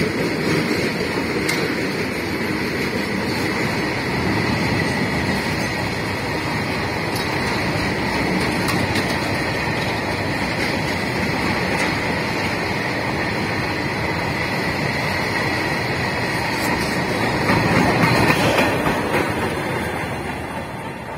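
Freight train of covered box wagons passing close by at speed: a steady rumble of wheels on rail with a thin high whine over it. It grows loudest near the end, then dies away as the last wagon goes past.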